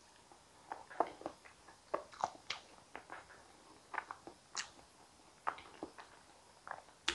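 Close-miked mouth sounds of a person eating soft sweet potato soup with avocado: scattered wet smacks and small clicks, irregular and spaced out.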